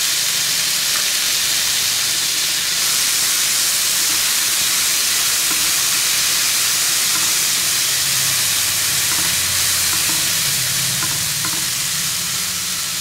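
Soaked soybeans, black-eyed peas and green peas sizzling steadily in hot mustard oil in a non-stick frying pan, stirred with a silicone spatula.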